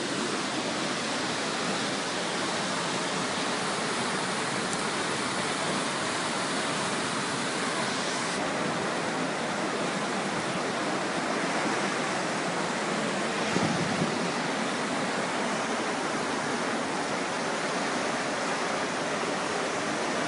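Fast-flowing floodwater rushing steadily, one even wash of noise with no let-up.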